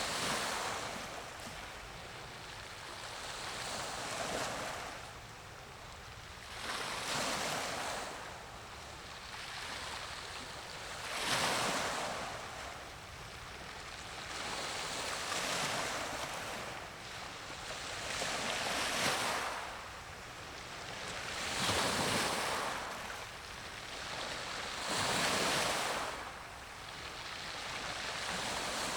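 Small sea waves breaking and washing in, a surge of wash about every three seconds.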